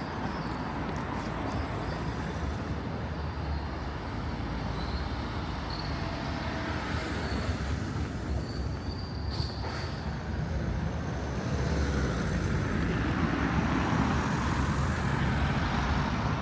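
Road traffic noise: a steady rumble of passing vehicles, growing louder about two-thirds of the way through as something passes close by.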